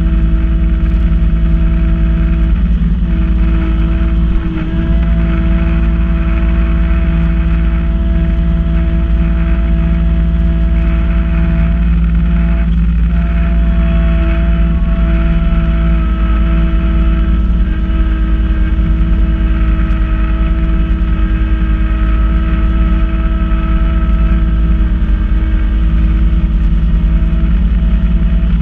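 Kubota B2650 compact tractor's three-cylinder diesel running steadily under load, driving a front-mounted B2782 PTO snow blower; a constant drone with a steady whine above it, with a brief dip about four and a half seconds in.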